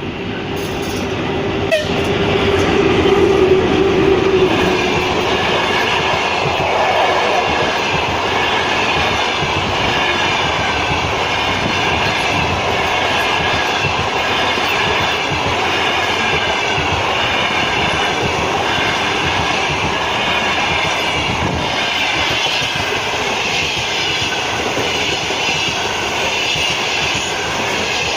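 Passenger train hauled by a VL82M electric locomotive passing close by, loudest a few seconds in. Then a long, even run of carriages rolling past with the clickety-clack of wheels over rail joints.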